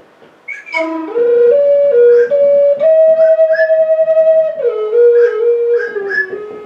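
Acoustic ambient music: a flute playing a slow melody that moves in small steps, with one long held note in the middle. It comes in about a second in, after a brief pause.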